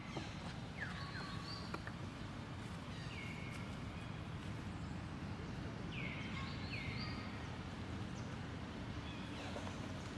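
Short high-pitched animal calls, about five of them in pairs, each falling in pitch and then levelling off, over a steady low rumble.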